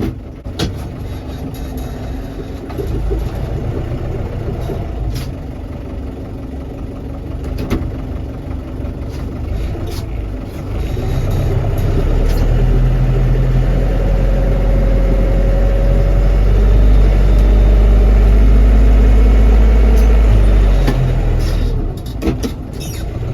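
A 50-horsepower Lovol tractor's diesel engine running steadily, becoming louder and deeper from about halfway through before easing off near the end.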